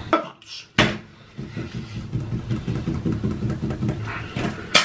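Close-miked chewing of a crispy fried egg roll: a sharp crunch about a second in, then a steady wet, rumbling chewing sound with small clicks and smacks of a full mouth.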